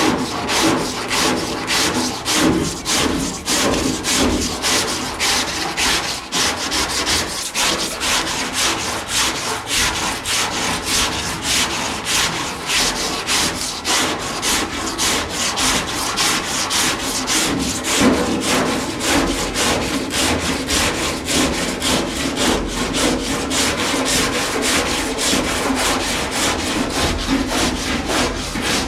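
Coarse 40-grit sandpaper worked by hand over body filler on a car door, a rasping scrape in quick, even back-and-forth strokes that keep going without a break.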